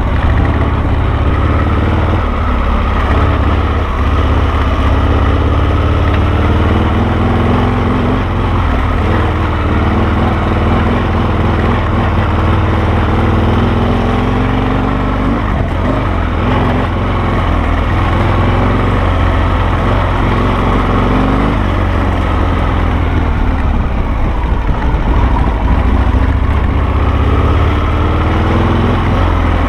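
Harley-Davidson Sportster V-twin engine of a dual sport motorcycle running under way, its pitch rising and falling again and again as the throttle opens and closes, over a heavy low rumble.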